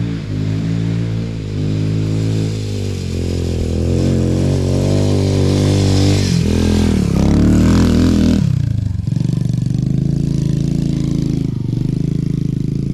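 Small single-cylinder four-stroke motorcycle engine (a Honda TRX125 engine in an XL100 frame) riding on a trail, its revs rising and falling with the throttle. It climbs in pitch and grows louder through the middle, then drops off sharply about eight seconds in and runs on steadily at lower revs.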